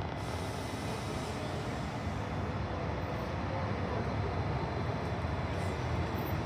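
City bus engine running as the bus pulls in, a steady low rumble that slowly grows louder.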